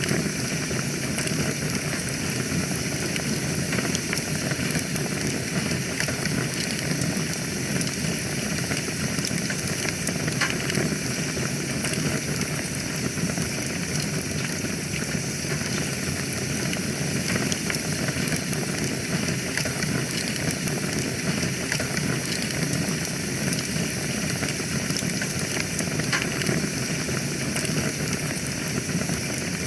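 Wood fire burning in a fireplace: a steady low rush of flames with a few faint, scattered crackles and pops.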